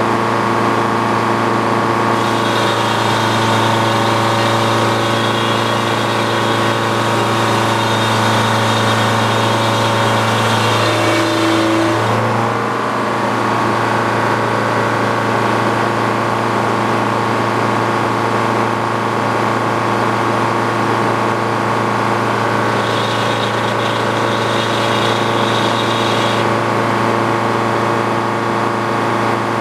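Engine powering an antique Frick sawmill, running steadily. A higher whine joins from about 2 to 12 seconds and again for about three seconds later on, as the circular saw cuts through a pine log.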